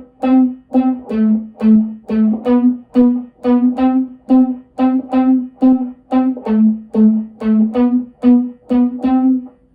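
Electric guitar through a Line 6 Helix with a Flexo Vibe modulation effect and no delay, playing a repeating pattern of short, separated single notes, about two a second, that shift between two close low pitches.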